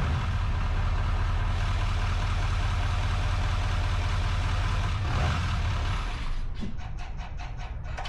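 Diesel pickup engine idling with a steady low chug, started on a jump pack with no batteries fitted. It dies away about six seconds in, and a series of light clicks and knocks follows.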